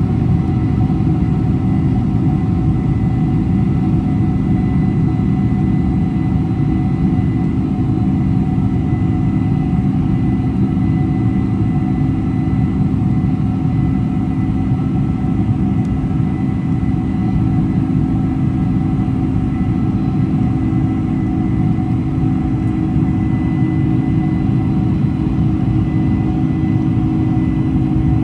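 Cabin noise inside a Boeing 747-400 airliner: its engines and the airflow make a steady low rumble, with a few steady hums over it.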